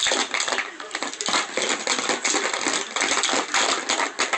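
A bunch of keys jangled and shaken, a fast, continuous run of metallic clinks and jingles.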